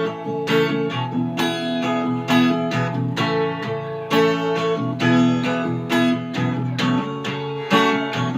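Acoustic guitar strummed in a steady rhythm, about two strokes a second, chords ringing with no voice over them.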